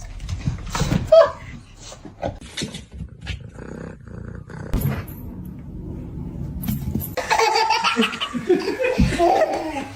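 Scattered knocks and rustling, then a person laughing hard from about seven seconds in.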